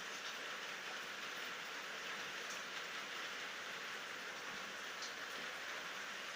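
Steady night rain falling: an even hiss with a few faint drop ticks, and no thunder.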